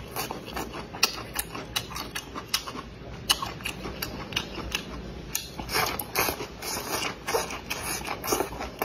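Close-miked chewing of cold kelp salad: an irregular run of wet, crisp crunches and mouth clicks, several a second.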